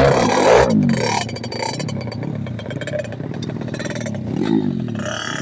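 Dirt bike engine revving up and down, loudest in the first second, then running at a steadier pitch with another rise near the end.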